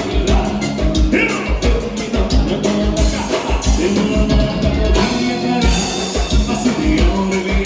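Live gaúcho dance-band music: an instrumental passage with a steady drum beat under a melodic lead, typical of accordion (gaita) led baile music.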